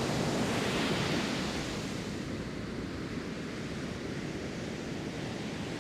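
Ocean surf washing on a beach: a steady rush of waves, swelling in the first second or so and then settling.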